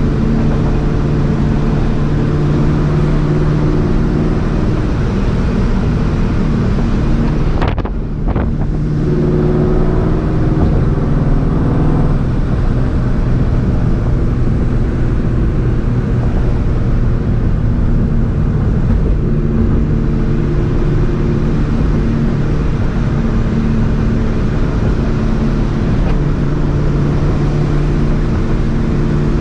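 Vortech-supercharged 4.6-litre two-valve V8 of a 2004 Ford Mustang GT, with long-tube headers and a Borla ATAK exhaust, running steadily while driving. About eight seconds in, the engine note briefly drops away and then climbs again before settling.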